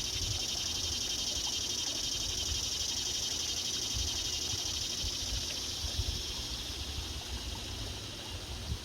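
An animal calling in a high, rapidly pulsing trill that runs steadily and fades near the end, over a low rumble.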